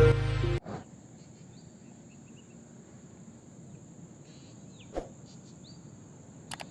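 Background music cuts off about half a second in, leaving quiet outdoor ambience: a steady high-pitched insect drone, like crickets, with a few faint short chirps and a single click about five seconds in.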